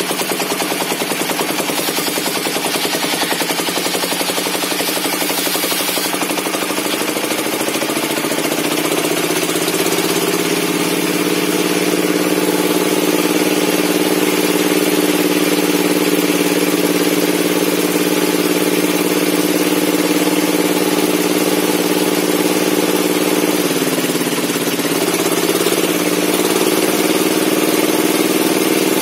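A log-cutting circular saw bench running steadily. About a quarter of the way in its drive speeds up to a higher, steady pitch. Near the end the pitch drops sharply and then recovers, as the drive takes a load.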